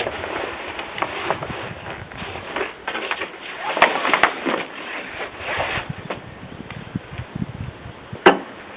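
Irregular knocks, clicks and scraping of hand work in a workshop, with one sharp knock near the end.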